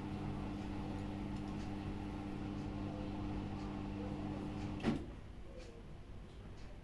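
Samsung WW80R421HFX front-loading washing machine running with a steady hum that cuts off with a sharp click about five seconds in.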